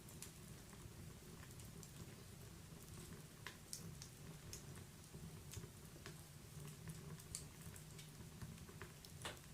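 Wood fire in a fireplace crackling softly: scattered sharp pops at irregular intervals over a low, steady rumble, with one louder pop near the end.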